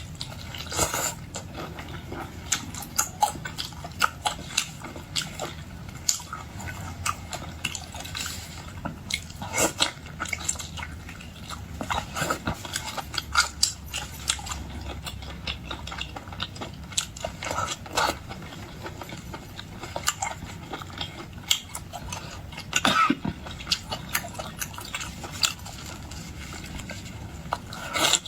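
Close-up eating sounds: a person biting and chewing, with many irregular short, sharp clicks.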